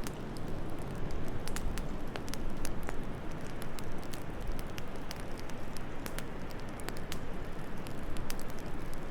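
Wood fire in a fireplace crackling, with frequent irregular sharp pops over a steady low rushing noise.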